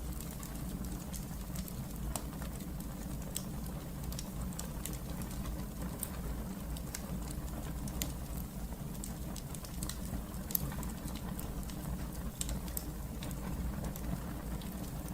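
Wood fire crackling in a fireplace: a steady low rumble of the flames with irregular sharp pops and snaps from the burning logs.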